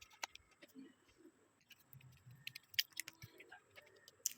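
Faint, scattered clicks and light taps of small phone parts being handled and fitted during reassembly, with a few sharper clicks in the second half.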